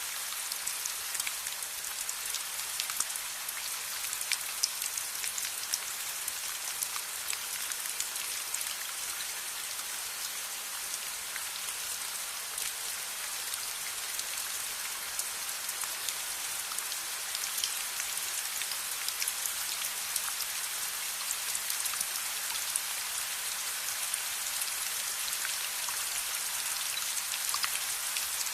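Steady rain falling: a dense, even hiss with many scattered sharp drop ticks.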